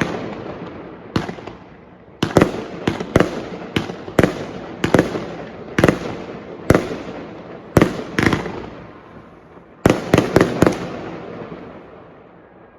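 Fireworks going off: an irregular series of sharp bangs, some in quick clusters, each followed by a long rolling echo. The bangs stop about eleven seconds in and the echo fades away.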